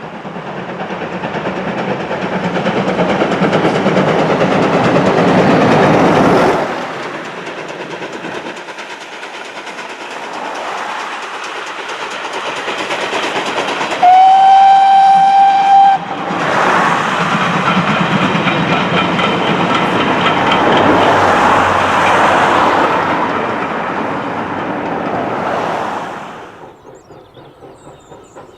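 Steam trains passing at speed, their rushing, clattering noise swelling and stopping abruptly. About halfway through, a locomotive's steam whistle blows one steady note for about two seconds. A second loud pass follows and fades out near the end.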